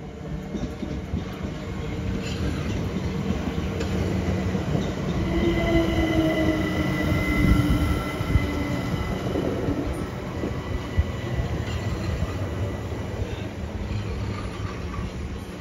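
Southern Class 377 Electrostar electric multiple unit running into the platform and slowing, with wheel and underframe rumble and clatter. A high squeal and a lower, slightly falling whine rise about five seconds in, are loudest around seven to eight seconds in, and fade by about nine seconds as the train slows.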